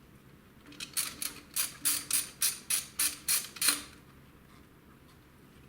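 Hand ratchet wrench clicking through about ten quick strokes, as bolts are worked loose, then stopping just before the four-second mark.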